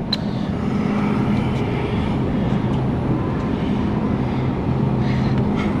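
Steady drone of a running vehicle: engine hum with road noise, holding an even low pitch.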